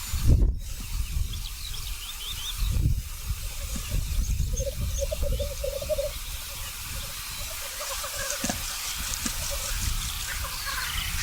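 Male black grouse displaying at a lek, giving their continuous low bubbling, cooing song, which swells between about four and six seconds in, with a few short high chirps over it.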